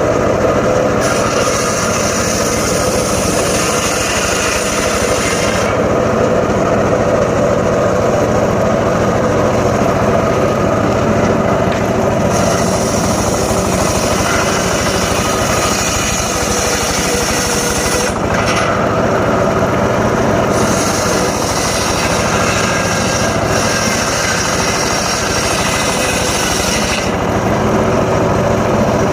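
Engine-driven homemade circular saw running steadily while cutting teak wood. A harsher, hissing edge comes and goes several times as the blade goes into and out of the cuts.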